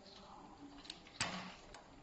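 A few light clicks and one sharper click a little after a second in, from tools and small parts being handled while a rear wheel is taken apart.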